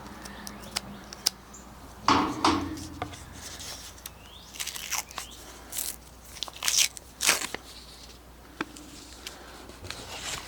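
Paper coin-roll wrapper being torn open and crinkled by hand to free a half dollar: a series of sharp tearing and rustling strokes, loudest about two seconds in.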